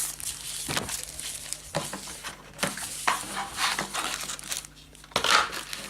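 Packaging being handled as a box is unpacked: irregular rustling and scraping with light knocks and clicks.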